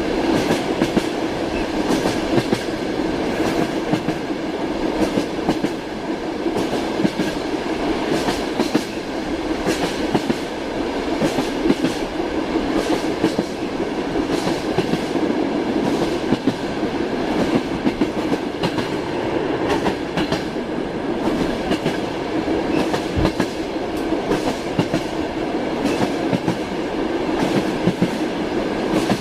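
Train wheels clacking over the rail joints, many uneven knocks over a steady rumble of the moving carriage.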